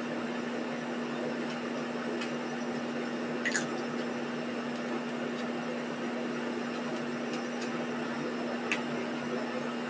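A steady mechanical hum over an even hiss, with a few faint clicks and one short high chirp about three and a half seconds in.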